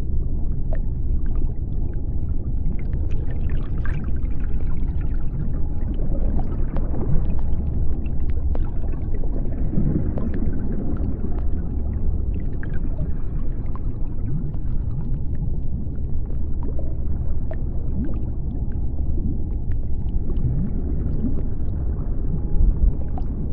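Underwater sea-floor ambience: a steady low rumble with a constant crackle of small clicks, and a few short rising moans now and then.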